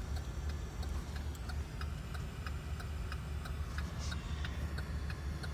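Rapid, even ticking from the wrecked 2017 Chevrolet Traverse, about three to four ticks a second, over a low steady hum. The car's electrics are still powered.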